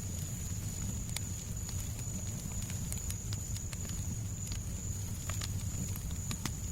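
Fireplace ambience: a steady low rumble of burning fire with scattered sharp crackles and pops, under a steady high-pitched hiss.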